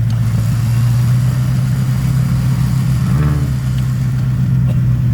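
A vehicle engine idling steadily close by, with a brief rise in pitch about three seconds in.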